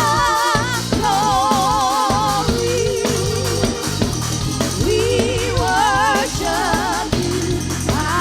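Gospel song: a singing voice holding long notes with wide vibrato over a steady bass line and percussion.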